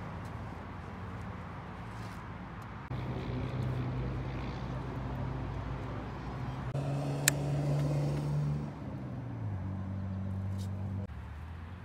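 2019 Yamaha R6 inline-four engine with a Yoshimura exhaust, running near idle. Its pitch rises briefly in the middle and then drops again, with a single sharp click about seven seconds in.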